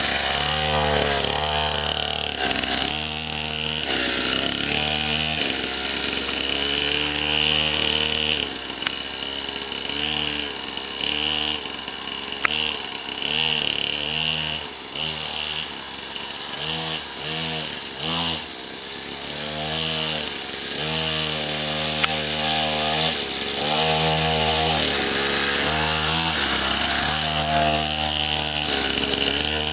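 Small pit bike engine revving up and down over and over, its pitch rising and falling with the throttle, running a little quieter for a while around the middle.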